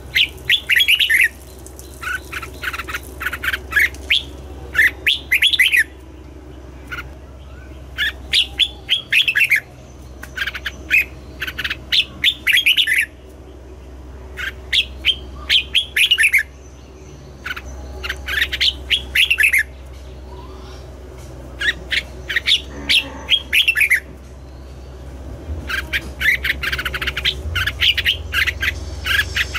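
Red-whiskered bulbul singing: quick phrases of bright chirping notes, repeated every couple of seconds with short pauses between, over a steady low hum.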